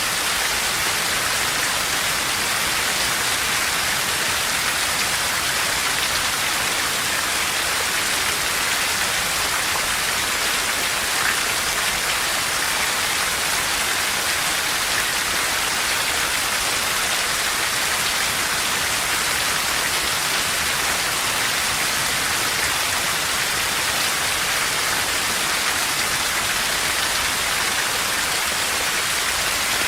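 Steady, heavy rain falling, an even hiss of many drops with no let-up.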